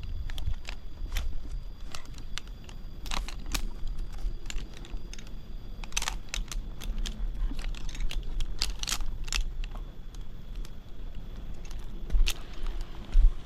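Irregular clicks, cracks and rattles, a few of them louder, over a steady low rumble.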